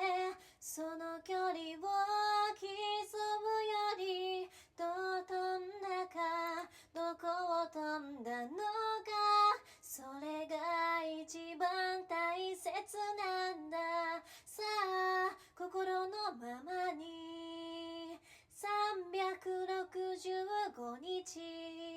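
A woman singing a cappella, solo and unaccompanied, in phrases with short breaths between them; she holds long notes about three-quarters of the way through and again at the end.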